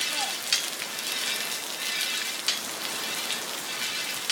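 Heavy downpour: a steady hiss of rain, with a couple of sharper drop hits, about half a second and two and a half seconds in.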